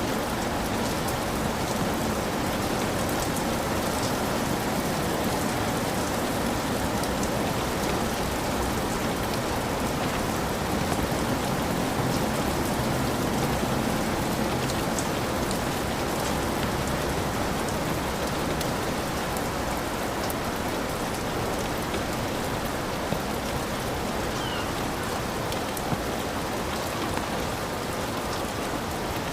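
Heavy rain pouring steadily, a dense even hiss with scattered sharper drop taps and a couple of brief louder taps near the end.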